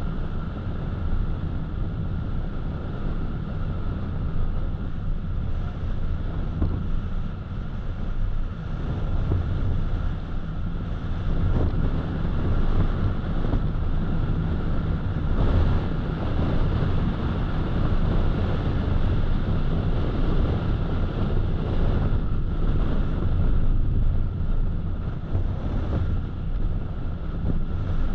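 Road noise of a car driving: a steady low rumble of tyres and wind, a little louder from about eleven seconds in.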